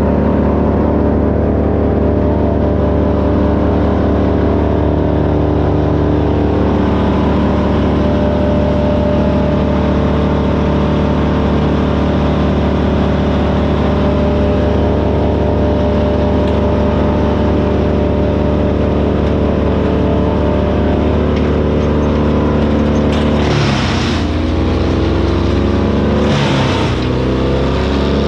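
Vermeer BC1000XL gas wood chipper running steadily at full speed. About 23 seconds in, its engine note dips and wavers as it takes a load, and there are short bursts of chipping noise near the end as wood is fed through.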